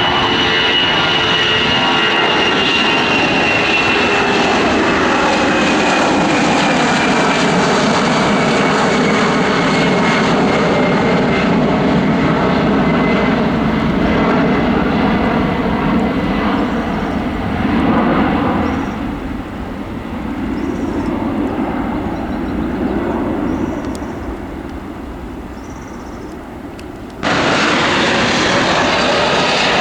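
Jet cargo aircraft's engines going past, loud, with a high whine that slowly falls in pitch over the first ten seconds; the noise then fades away. About 27 seconds in, the sound cuts abruptly to another loud jet engine.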